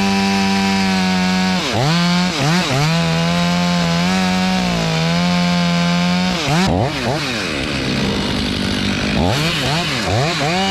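Two-stroke chainsaw at full throttle making a cut into a maple limb. Its revs dip and pick back up several times, ease off for about three seconds after the middle, then climb again near the end.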